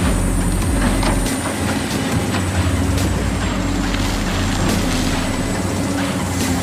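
A miniature truck running steadily with a low engine-like drone, with scattered clicks and knocks over it.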